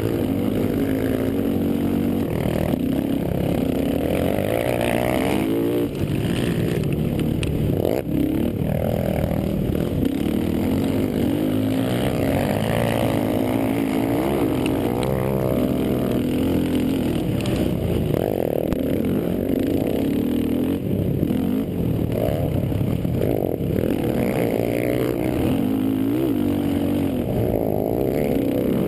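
Several racing quad (ATV) engines revving up and falling off over and over, their pitches overlapping as the machines race.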